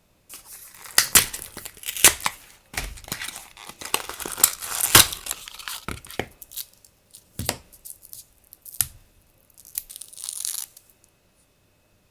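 Packaging being opened and handled in a quick run of crinkling, tearing crackles that stops near the end.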